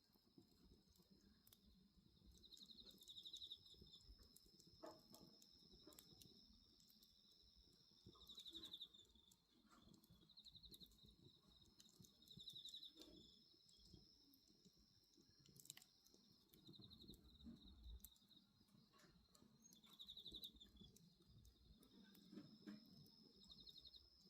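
Faint night insects: a steady high trill, with a pulsed chirp coming back about every four seconds, over the scattered snaps of a crackling bonfire.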